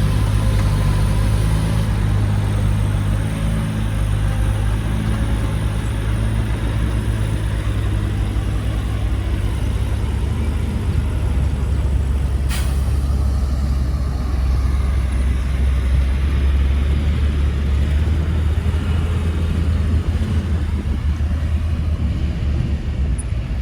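Heavy diesel engine of earthmoving machinery running steadily, its note dropping lower about halfway through. A single sharp click about twelve seconds in.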